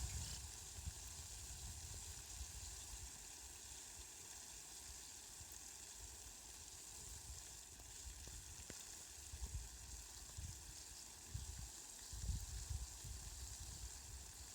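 Steady, faint hiss of falling rain, with soft low rumbles now and then.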